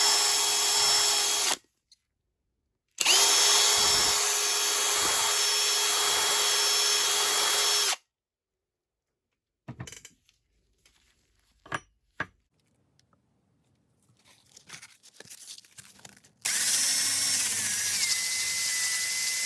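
Small handheld power tool, such as a drill, running steadily at a constant speed; the sound cuts off abruptly twice. A quiet stretch with a few light clicks and handling noise follows, then a power tool starts again at a different, higher-pitched tone near the end.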